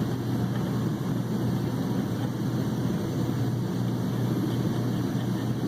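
A steady low machine drone that holds unchanged throughout, with no distinct knocks or tool sounds standing out.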